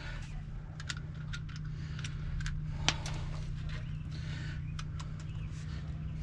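Scattered light metallic clinks and taps, with one sharper click about three seconds in, over a steady low hum.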